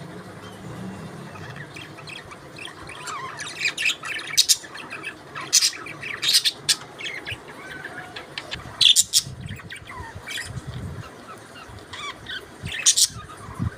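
Parakeets chirping and squawking: a scatter of short high calls, with several loud, sharp squawks through the middle and one near the end.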